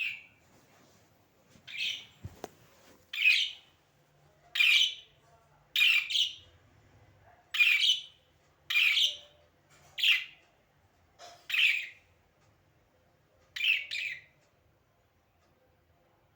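Budgerigar giving a series of loud, harsh single calls, about one a second, stopping a couple of seconds before the end.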